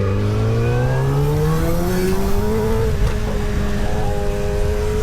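Motorcycle engine accelerating, its pitch rising steadily for about three seconds, then holding a steady note.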